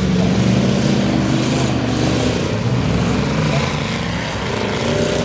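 Engines of several racing trucks running hard at once, their pitches rising and falling as they go around.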